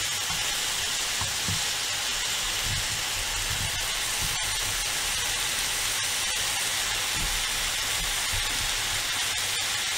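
Diced zucchini frying in a nonstick pan: a steady sizzle.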